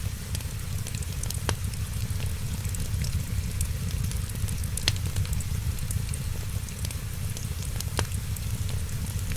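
Wood fire in a fireplace crackling steadily with many small ticks, over a low rumble and hiss. Three sharper pops stand out, about a second and a half in, near the middle and near the end.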